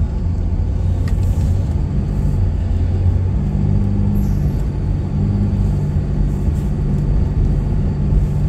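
A vehicle's engine and road noise while driving: a steady low rumble, with the engine note shifting up slightly about three and a half seconds in.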